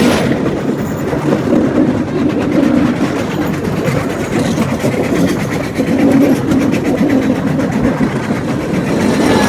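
Cambodian bamboo train (norry) running along the rails: a steady, unbroken rattling rumble of the bamboo platform and its wheels on the track.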